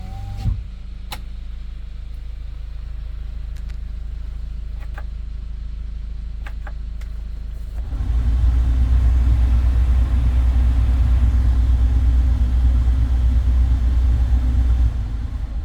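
Hyundai Porter II truck's engine idling, a power window motor's whine cutting off about half a second in, with a few light clicks over the next few seconds. About eight seconds in the engine rises to a louder, deeper steady run, held for about seven seconds, then drops back to idle near the end.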